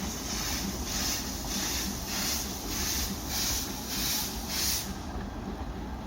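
The Apto-kun park train's locomotive chuffing: a rhythmic hiss about twice a second that stops about five seconds in.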